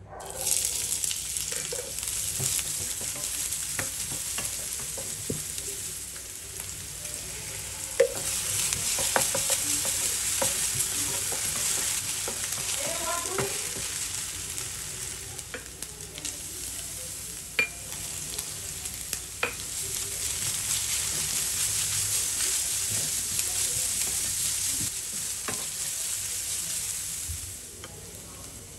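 Chopped onions and vegetables sizzling in hot oil in a nonstick frying pan, stirred with a wooden spatula, with a few sharp clicks. The sizzle starts the moment the onions go in, swells and eases a few times, and dies down shortly before the end.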